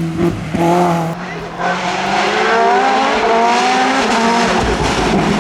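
Hillclimb race car engine running hard. The revs drop and the sound dips briefly early on as the throttle lifts, then the revs rise steadily as the car accelerates away.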